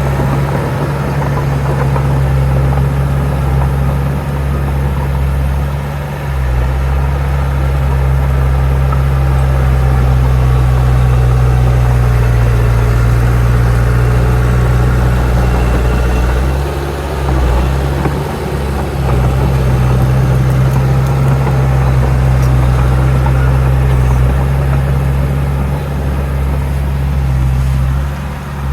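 Heavy diesel engine of an earthmoving machine running steadily under load, with brief dips in engine note about six seconds in, around seventeen to nineteen seconds, and near the end.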